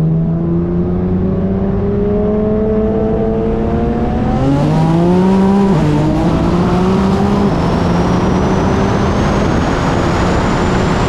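High-powered engines pulling at full throttle in a roll race. The pitch climbs steadily, drops sharply about six seconds in at a gear change, then climbs more slowly under rising wind and road noise. A faint high whistle climbs in pitch in the second half.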